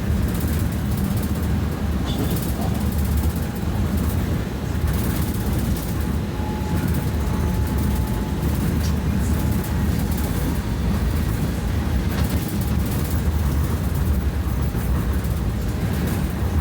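Running noise of a BKM 60102 tram in motion, heard from inside the car: a steady low rumble of the wheels on the rails and the drive.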